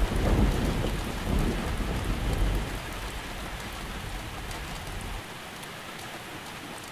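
Steady rain with a low rolling thunder rumble that dies away over the first few seconds, leaving only the rain, which fades lower near the end.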